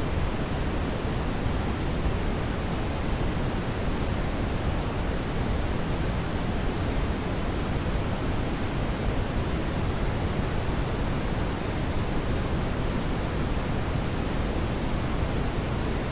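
Steady brown noise: an even, unchanging hiss weighted toward the low end, like a deep rushing.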